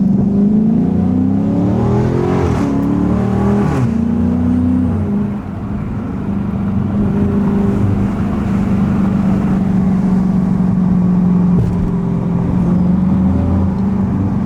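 Dodge Scat Pack's 392 HEMI V8 and its loud exhaust, accelerating through gear changes in the first few seconds with the pitch climbing and dropping, then settling into a steady drone while cruising.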